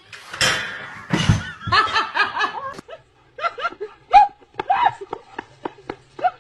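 A person laughing: breathy bursts at first, then a run of short, quick 'ha-ha' bursts.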